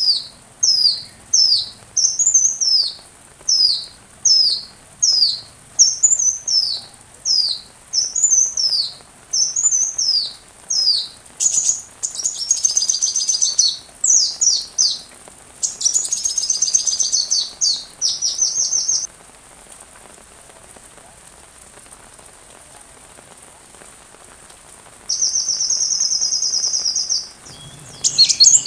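Sunbird (kolibri) singing: a run of high, down-slurred chirps in quick succession, then faster trills and rattling phrases. After a pause of several seconds comes a steady high buzzing trill near the end. A faint hiss of rain runs underneath.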